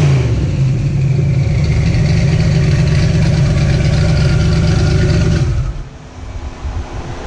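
Twin-turbo 500ci V8 of a Ford Cortina drag car running hard, then dropping off about five and a half seconds in to a much quieter, steady idle.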